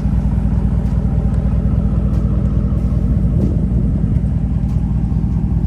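The 2010 Ford F-150 SVT Raptor's 5.4-litre Triton V8 idling steadily with a low, even rumble.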